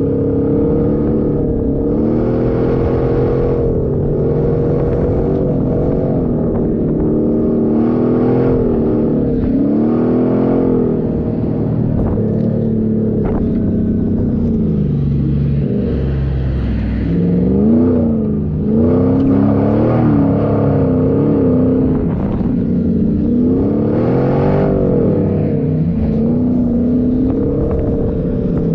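Off-road 4x4 engine driving on sand dunes, its revs rising and falling over and over as the throttle is worked.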